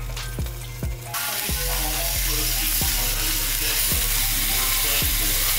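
Cheeseburgers and buns frying in a cast iron skillet, a steady sizzle that sets in about a second in. Background music with a steady beat runs underneath.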